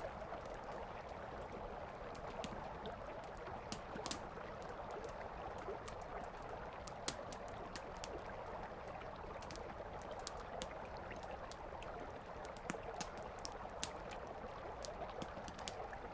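Wood campfire crackling with frequent sharp pops and snaps, one louder pop about seven seconds in, over the steady rush of a flowing river.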